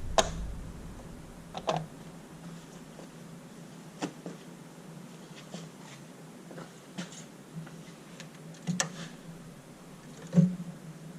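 Scattered light clicks and knocks of hand tools and parts being handled during car work, a few sharper ones about a second and a half in, near nine seconds and near the end, over a faint steady hum.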